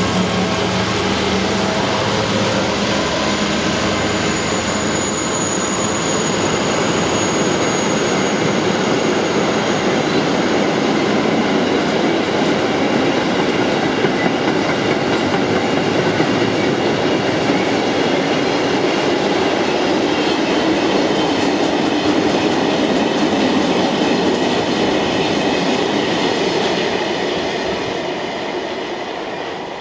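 Loaded car-carrier freight wagons rolling steadily past behind a Class 66 diesel locomotive, whose engine note fades in the first seconds. A thin high squeal rises from the wheels between about four and nine seconds in, and the rolling noise dies away near the end as the last wagons go by.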